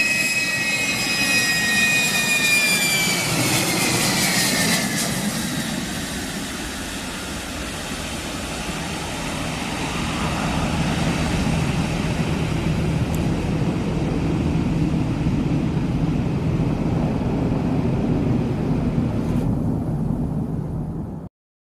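Jet airliner engines: a high whine falls in pitch as the aircraft passes, over a steady rush of engine noise that lasts until it cuts off suddenly near the end.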